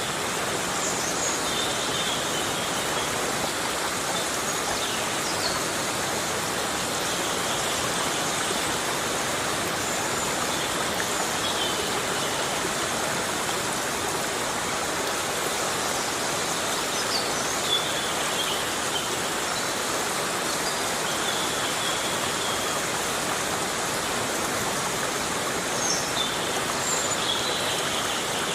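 Heavy rain falling steadily in a forest, a dense unbroken hiss of water. A few brief high chirps sound now and then over it.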